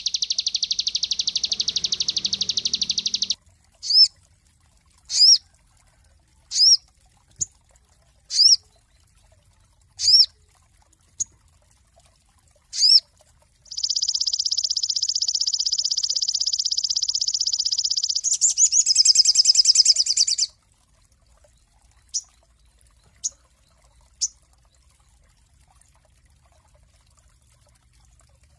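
Sogon songbird singing: a fast, dense high trill at the start, then a series of single sharp chirps about every second and a half, a long buzzy trill about halfway through followed at once by a shorter rattling trill, and a few faint chirps after that.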